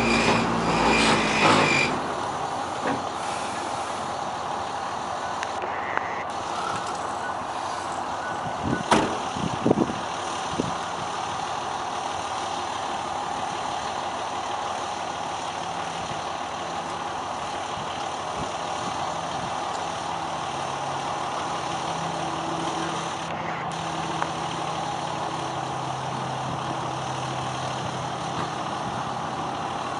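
Pickup truck engine running steadily, louder for the first couple of seconds. A few sharp knocks come about nine to ten seconds in, and a steadier low engine note rises from about two-thirds of the way through.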